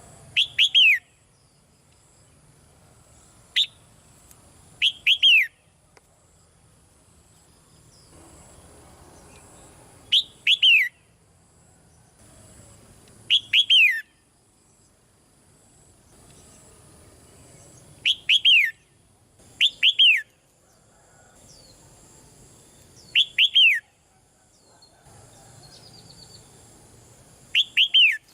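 Red-whiskered bulbul calling: loud, short phrases of two or three quick downslurred whistled notes, repeated every few seconds.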